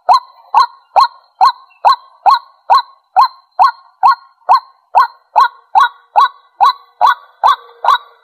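White-breasted waterhen calling: a steady, even run of short loud 'kwak' notes, a little over two a second, the bird's territorial call.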